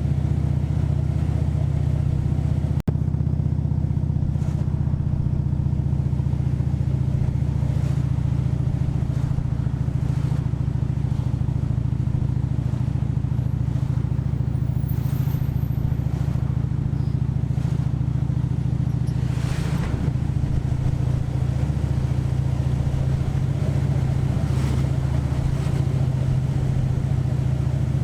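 Harley-Davidson V-twin engine running steadily while riding, with a single sharp click about three seconds in.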